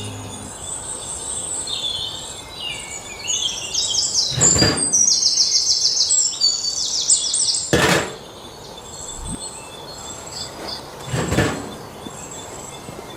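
Birds chirping in quick, repeated high trills, busiest in the first half, with three brief rushing noises spread through.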